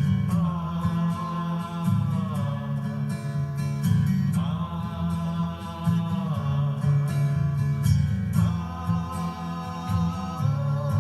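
Strummed acoustic guitar under a voice singing long held notes, three in all, each held about two seconds and sliding down at its end.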